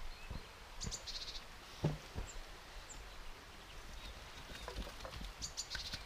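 A small songbird gives a short, quick trill about a second in and again near the end, with a few thin high chirps between. Several soft knocks and crackles come from the campfire and its wood, over a steady background hiss.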